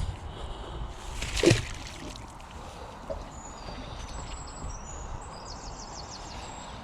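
Outdoor ambience with one short loud sound, falling in pitch, about a second and a half in, then faint high bird chirps and a trill in the second half.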